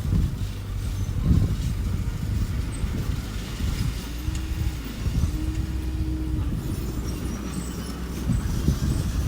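Engine of a small construction machine running with a low rumble. Twice, about four and then five and a half seconds in, a steady whine rises, holds and falls away, the longer one lasting about a second.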